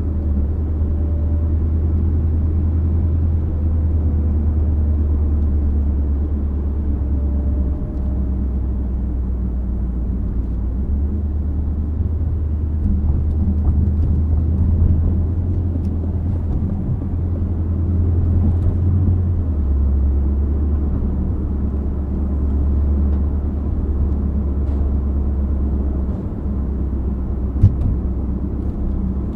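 Aston Martin Vantage's twin-turbo 4.0-litre V8 running steadily at low revs while driving slowly, a deep low rumble whose pitch steps down slightly about 11 and 19 seconds in. A short sharp knock comes near the end.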